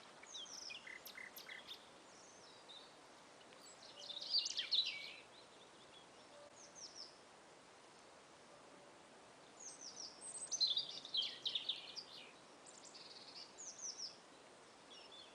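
Songbirds chirping and singing in short clusters of quick, falling high notes, busiest about four seconds in and again around ten to twelve seconds, over a faint steady background hiss.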